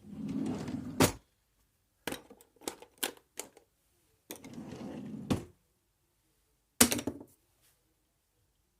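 Short scraping, rustling stretches, each ending in a sharp click, with a quick run of light clicks and knocks between them.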